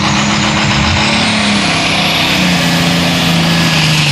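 Turbocharged diesel pulling tractor running at full throttle under load, with a high turbo whine that climbs and then holds. The engine note slowly drops in pitch as it labours against the sled.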